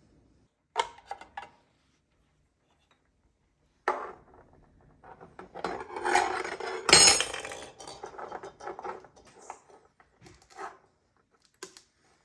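Cutlery and a plate clattering at a table: a few light clinks about a second in, then from about four seconds a busy run of scraping and knocking, with the loudest knock near seven seconds.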